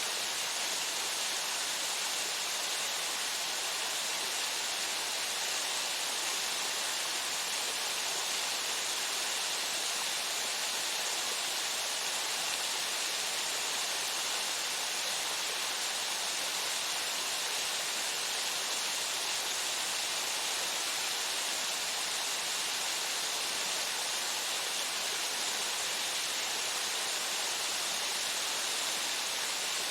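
Small waterfall splashing steadily, a constant even rush of falling water with a hissy, bright character and little low rumble.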